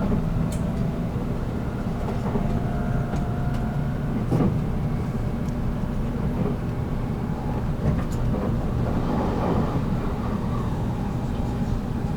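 Running noise of a JR Kyushu 783 series electric train heard from aboard motor car MoHa 783-13: a steady low rumble of wheels and running gear with faint steady whine tones and a few sharp clicks from the track.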